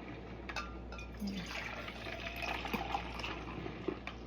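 Small drip coffee maker trickling brewed coffee into the cup at the end of its brew cycle.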